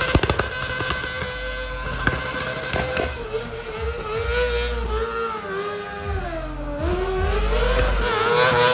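Competition car engine held at high revs while drifting, its pitch wavering up and down, dipping about two-thirds through and climbing again. A few sharp cracks near the start.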